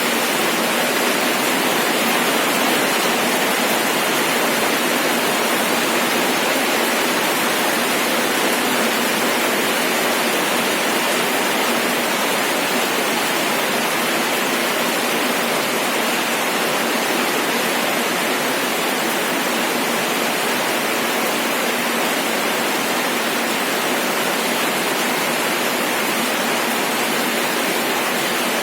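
Steady rain falling, an even hiss with no breaks, single drops or thunder.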